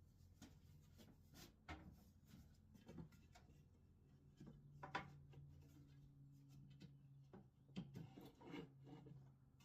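Faint handling noises: scattered light knocks and rubs, the sharpest knock about five seconds in and a small cluster near the end, over a low steady hum.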